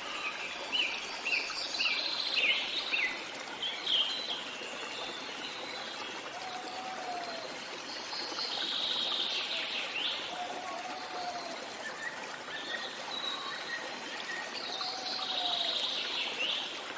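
Steady flowing stream with songbirds singing over it: a quick run of short repeated chirps in the first few seconds, longer trilled phrases about halfway through and again near the end, and a few low whistled notes in between.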